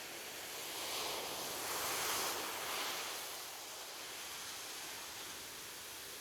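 Ocean surf: a wave breaks and washes in, swelling about a second in, peaking near the middle and easing back to a steady hiss.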